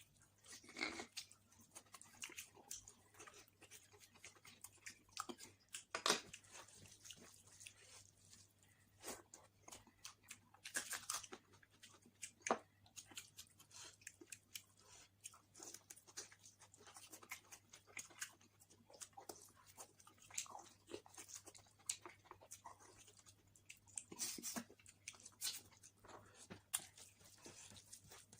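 Close-miked chewing and mouth sounds of someone eating basmati pulao and mutton curry: irregular soft clicks, smacks and crunches.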